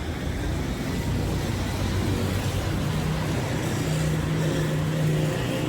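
A motor running with a steady low hum that grows a little stronger about halfway through.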